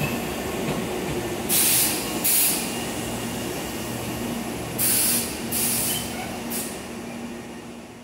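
Tobu Urban Park Line 8000-series electric commuter train running along the platform: a steady rumble broken by five short, sharp hisses, fading away near the end.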